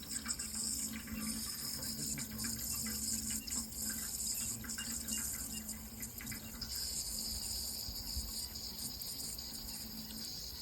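Water running continuously, an even, steady hiss with no breaks, over a faint steady low hum.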